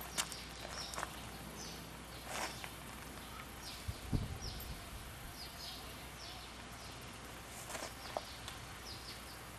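Small birds chirping: short falling chirps repeated many times over a steady outdoor background, with scattered faint clicks and one low thump about four seconds in.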